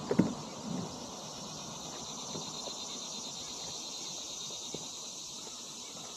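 Steady high buzzing chorus of insects over the creek. A few short knocks or splashes come in the first second.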